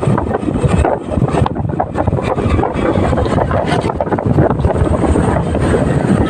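Wind buffeting the microphone on a moving motorcycle, over the rumble of the engine and road noise.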